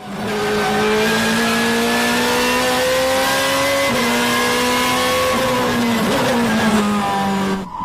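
BMW M3 GTR race car's V8 pulling hard under load, its pitch climbing steadily. The pitch drops briefly about four seconds in, like a quick upshift, then climbs again, eases and holds steady before stopping abruptly.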